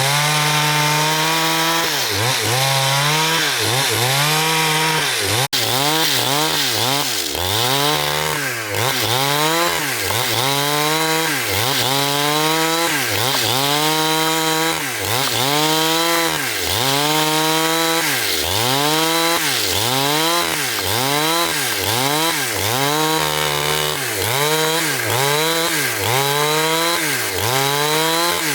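Power saw cutting through timber, its motor note dipping and recovering in pitch about once a second as it works into the wood.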